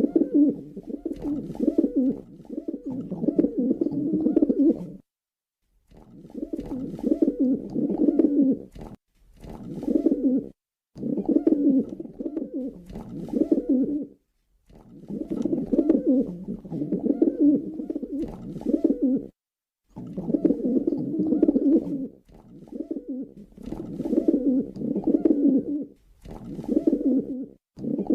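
Pigeons cooing continuously in low, throaty warbles, broken by several sudden brief silences.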